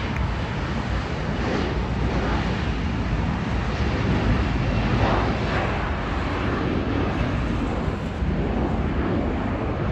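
Jet airliner engine noise at close range: a steady, even rush with no clear tone, holding at much the same level throughout.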